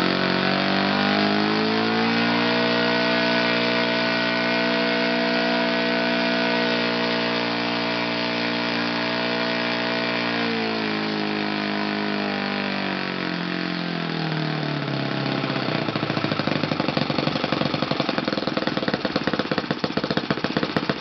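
Kalt FC-1 four-stroke glow model engine turning a 13x6 propeller. It revs up over the first couple of seconds and holds steady at high revs. About ten seconds in it throttles back down over several seconds to a slow idle where each firing beat is heard separately.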